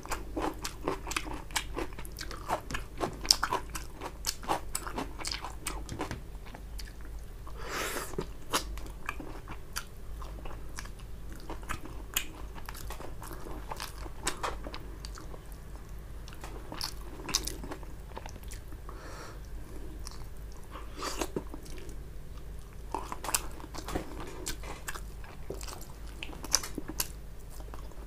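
Close-up chewing and biting of a mouthful of rice and tilapia fish curry, with a steady run of small mouth clicks and smacks.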